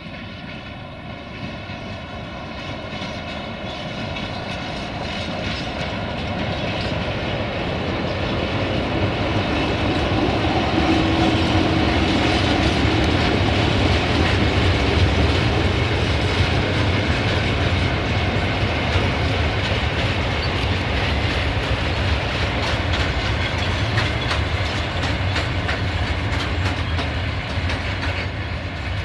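Train running past, its wheels clattering over the rail joints above a low rumble that grows louder over the first ten seconds or so, then holds, easing slightly near the end.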